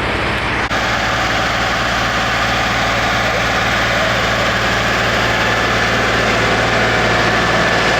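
Eicher tractor's diesel engine running steadily, with an abrupt break in the sound under a second in.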